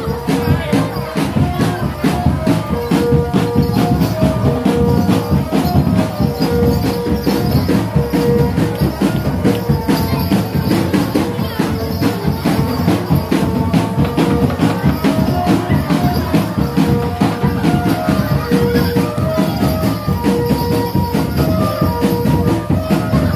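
Barongan accompaniment music played live: dense, fast percussion over a melody of held notes stepping up and down, running without pause.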